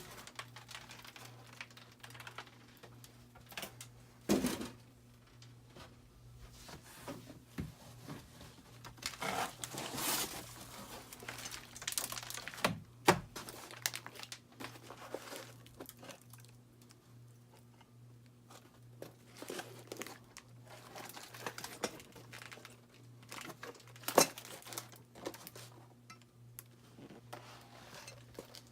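Packing material crinkling and rustling as it is handled, with scattered sharp clicks and knocks, two of them louder about halfway through and near the end. A steady low hum runs underneath.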